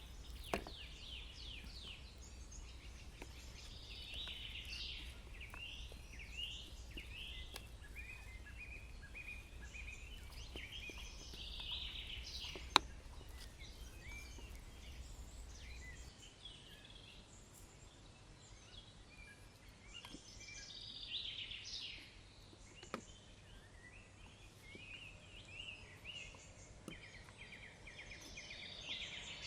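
Woodland birds chirping in a continuous busy chorus, with one sharp click about thirteen seconds in and a few fainter ticks.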